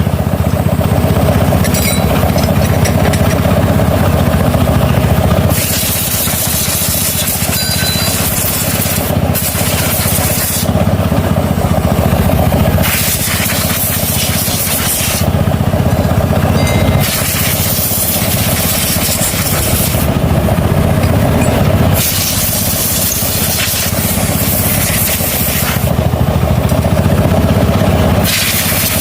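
Motorcycle engine idling steadily, with a hiss that comes and goes every few seconds.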